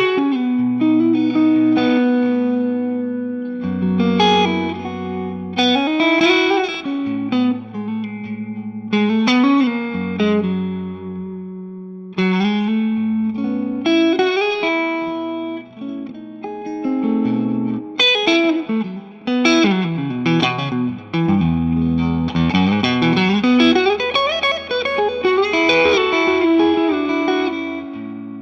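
Electric guitar played through a Two-Rock Classic Reverb Signature tube amp head: melodic single-note lines with string bends and strummed chords over held low notes.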